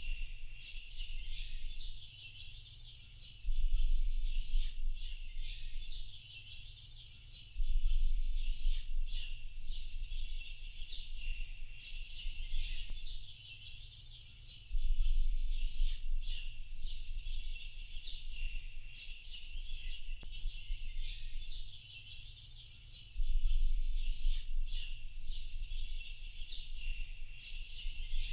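Many small birds chirping and twittering at once in a dense, unbroken chorus. A low rumble swells up under it four times, each time for a few seconds, and is the loudest part.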